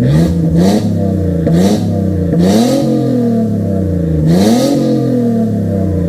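BMW E46 325i's 2.5-litre inline-six revving through an aftermarket straight-through racing catback exhaust: several quick throttle blips, each pitch rising and falling back to idle, with a longer gap before the last one.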